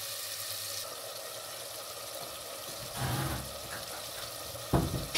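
Spice masala sizzling steadily in a stainless steel pot, with a single sharp knock near the end.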